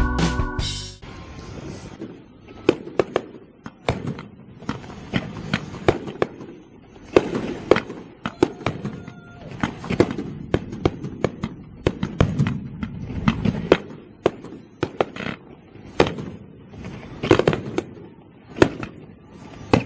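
Fireworks going off: a long run of sharp, irregular bangs and pops, several a second at times, some louder than others.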